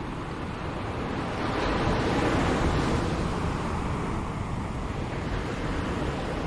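Ocean surf: a wave builds over about two seconds into a rushing wash, then slowly eases off.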